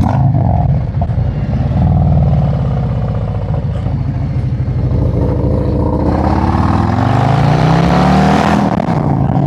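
Harley-Davidson motorcycle's V-twin engine running under way, with wind rushing over the microphone. About six seconds in the engine pitch climbs steadily as the bike accelerates, then falls back near the end.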